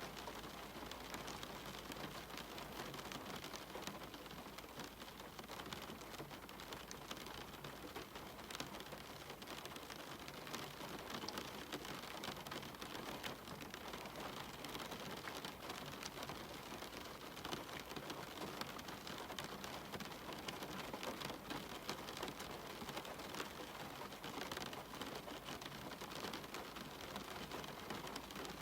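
Steady rain: an even hiss of falling rain with many small ticks of single drops striking, and no thunder.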